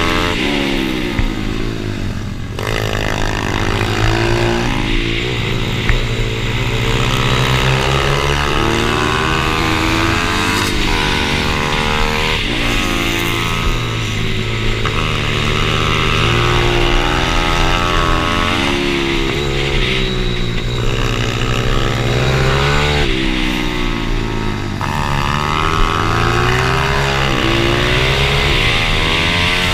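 Pit bike engine run hard. The pitch repeatedly climbs, drops back and climbs again, as the bike accelerates through the gears and slows between stretches.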